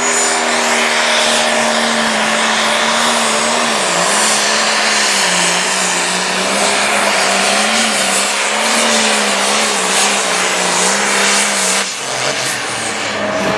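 Turbocharged International Harvester 1066 diesel pulling tractor at full throttle, dragging a sled under heavy load. Its engine note sags about four seconds in and wavers under the load, then drops off near the end as the pull finishes.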